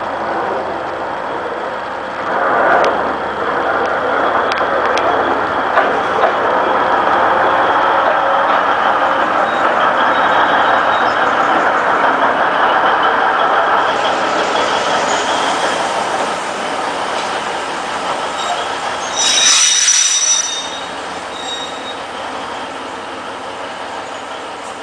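Alishan Forest Railway diesel locomotive DL50 moving railway cars during shunting: a steady noise of the train running on the track that grows louder about two seconds in. A brief high-pitched squeal of the wheels on the rails comes about twenty seconds in.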